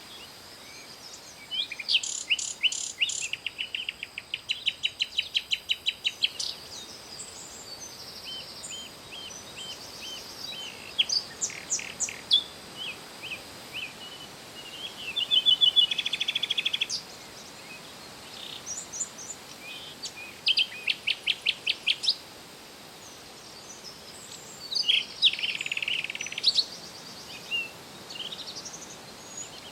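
Several songbirds singing and calling over one another: rapid trills, strings of quick repeated chirps and short whistled notes, over a faint steady hiss.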